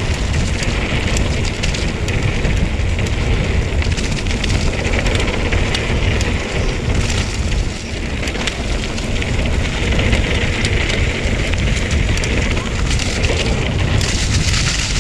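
Mountain bike riding over a dusty dirt trail: wind buffeting the on-bike microphone, with a steady low rumble, and tyres crunching and the bike rattling in many small clicks.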